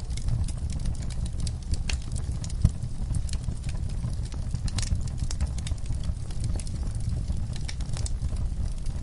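Log fire burning with a low steady rumble and irregular sharp crackles and pops from the wood, one pop louder than the rest about two and a half seconds in.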